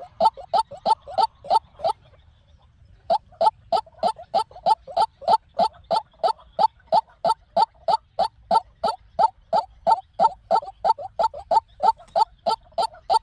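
White-breasted waterhen calling: a fast, even run of short repeated notes, about three a second, broken by a pause of about a second near the start.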